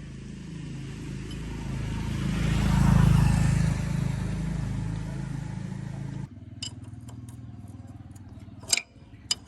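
An engine running, growing louder to a peak a few seconds in and then easing off, before cutting off abruptly about six seconds in to a much quieter hum with a couple of sharp clicks near the end.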